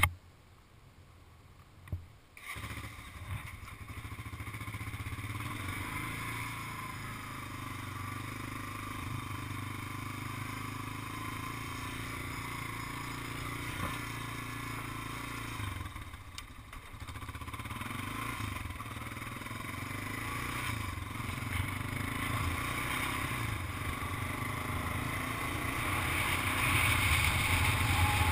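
Engine of a big Honda ATV running as it is ridden, a steady hum that sets in abruptly about two seconds in after near quiet, dips briefly midway and grows louder near the end.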